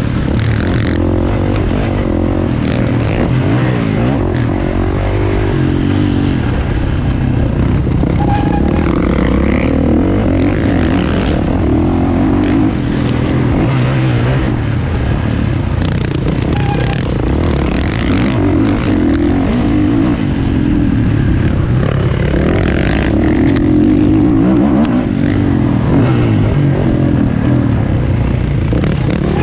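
450cc motocross bike engine being ridden hard, its pitch rising and falling again and again as the throttle is opened and closed.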